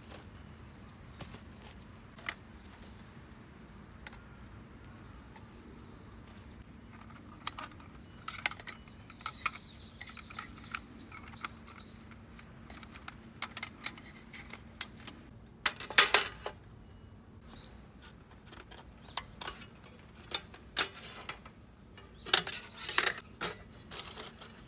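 Scattered clicks, clinks and light knocks of camping gear being handled, with a louder clatter about sixteen seconds in and a quick run of knocks near the end.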